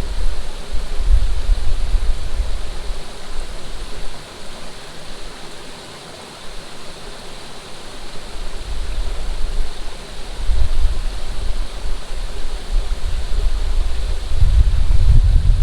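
Steady rush of running water, with gusts of wind buffeting the microphone that die down for a few seconds in the middle and pick up again toward the end.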